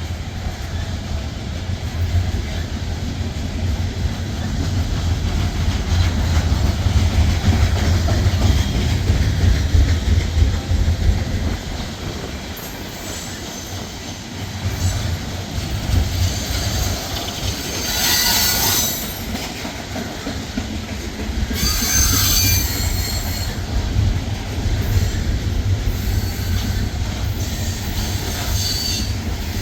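A train rolling past with a steady low rumble of wheels on rail. Its wheels squeal shrilly twice, briefly, a little past halfway.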